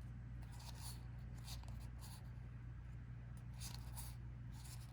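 Trading cards being turned over and slid across one another by hand: several faint, soft swishes over a steady low electrical hum.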